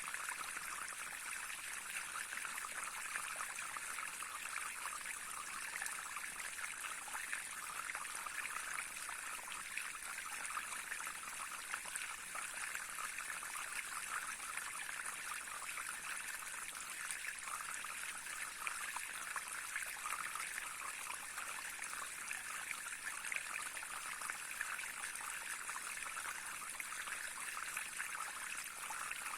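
Small stream flowing over stones, a steady, even trickling and babbling with no change.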